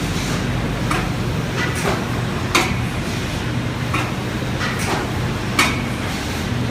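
Sakurai automatic spot and raised-varnish coating machine running: a steady low hum with short sharp clacks about once a second, repeating in a cycle with a louder clack about every three seconds.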